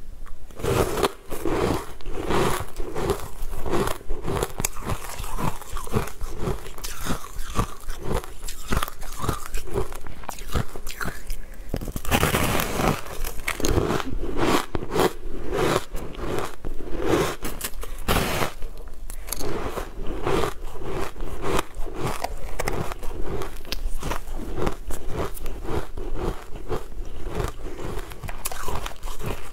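Close-miked biting and chewing of a crunchy food: a steady run of crisp crunches in a chewing rhythm, with a few louder bites about twelve and eighteen seconds in.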